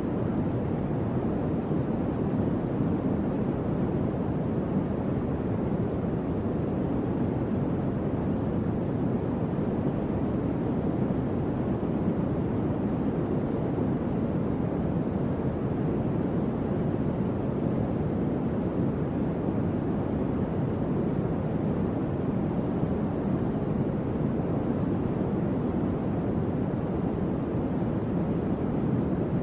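Fan running steadily: an even, deep whoosh of moving air with no tone, rhythm or change.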